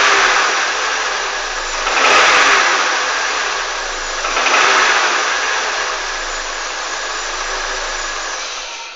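Honda CR-V engine being revved: three short rises in engine speed about two seconds apart, then running steadily before the sound drops away sharply near the end. The owner is demonstrating a knock in the engine.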